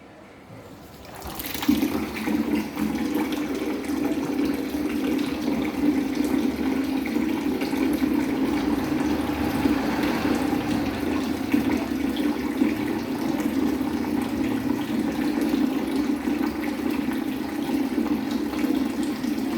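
Water running steadily from a tap, starting about a second and a half in and going on without a break.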